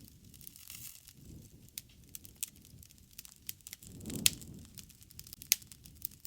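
Wood fire crackling, with irregular sharp pops over a low, uneven rushing. The rushing swells about four seconds in, where the loudest pop comes.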